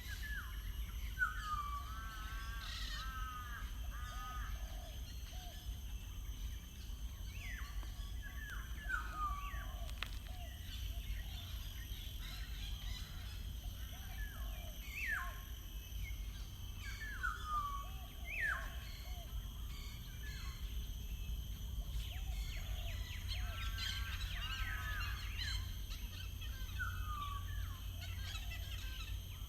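Songbirds singing outdoors: short phrases of falling whistled notes and quick repeated trills come every couple of seconds, over a steady low rumble.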